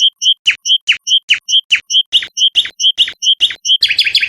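A songbird singing a fast series of alternating notes, a short clear note and a falling sweep, about five a second, breaking into a quicker trill near the end.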